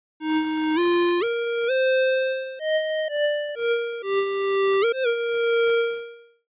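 Surge XT software synthesizer playing a short single-line melody of about a dozen notes in a bright tone full of overtones. The notes climb step by step, then fall, and the last note is held and fades out.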